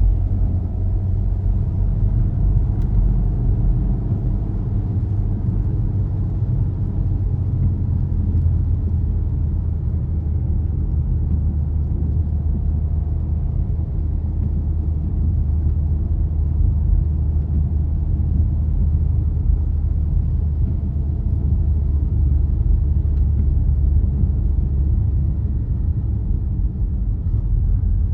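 Car driving along at a steady pace: a continuous low engine and road rumble, unchanging throughout.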